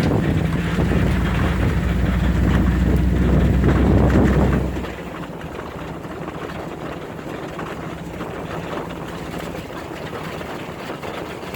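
Two-wheel-drive Chevy's engine running steadily under throttle, then dropping sharply to a much quieter idle about five seconds in.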